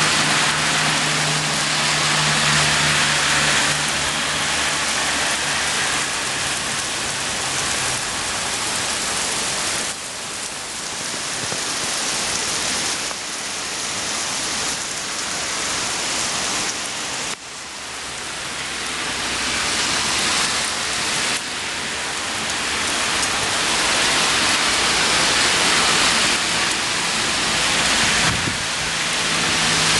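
Heavy rain and falling water, a steady dense hiss with a faint low hum underneath. The level drops abruptly at about 10 and 17 seconds in, then builds again.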